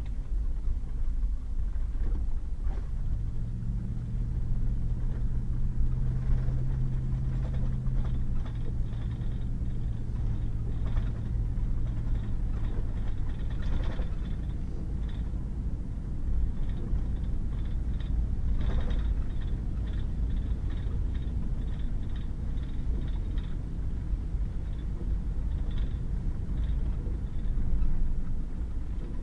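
Pickup truck driving on a wet gravel road: a steady low rumble of tyres and engine, with a droning engine note for the first third or so. Scattered light ticks and a couple of sharper knocks come through, as from gravel and bumps.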